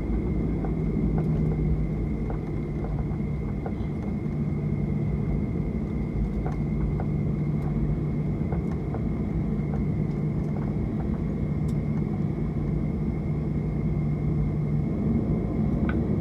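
Boeing 737-800 cabin noise from the rear seats on the ground after landing: a steady low rumble of engines and wheels with a steady hum and light rattles of cabin fittings.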